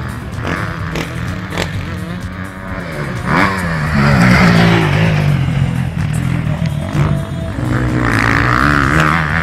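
Off-road motorcycle engines revving, their pitch rising and falling as the bikes work the throttle, over background music.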